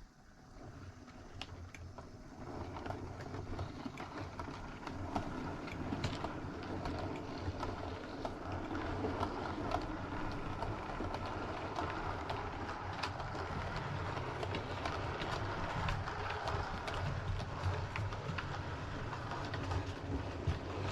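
Model railway train running along the track, getting louder over the first few seconds and then running steadily, with many small irregular clicks from the wheels on the rails.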